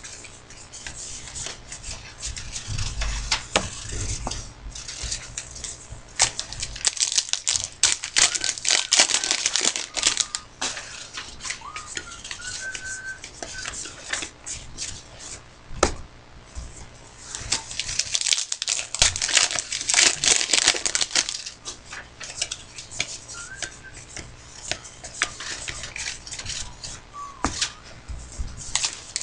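Trading card packs being torn open and their foil wrappers crinkling, with cards shuffled and handled in bursts of rustling.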